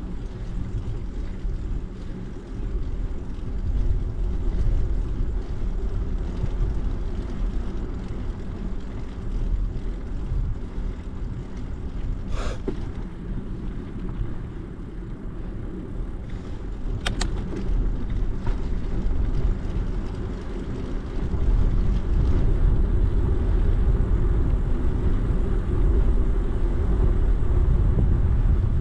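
Steady low rumble of wind on the microphone and rolling noise from a moving bicycle, louder from about two-thirds of the way in, with two brief clicks partway through.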